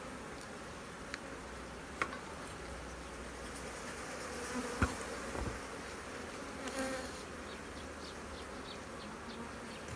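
Honeybees buzzing around an opened hive during a frame inspection, a steady hum with a few sharp clicks, the loudest a little before halfway.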